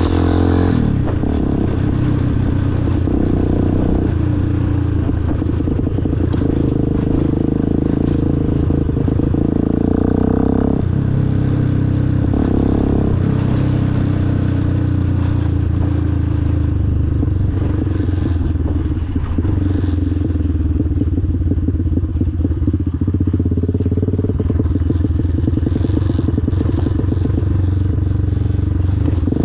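Motorcycle engine running steadily under way, with the engine note shifting a few times as the throttle and gears change.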